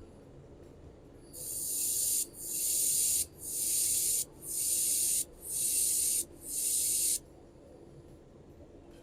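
Handheld laser welder firing in spot-welding mode on anodised aluminium extrusion, fusing it without filler wire: six hissing pulses of just under a second each, back to back, stopping abruptly.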